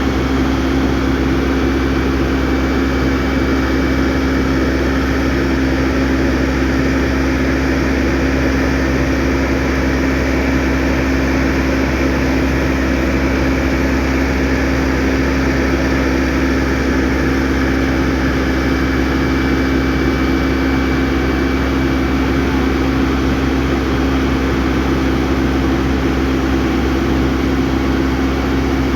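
An engine running steadily: a constant, unchanging drone with a strong steady hum.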